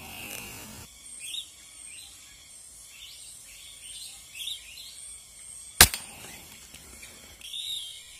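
Many small birds chirping and twittering, with a single sharp crack of an air rifle shot about six seconds in.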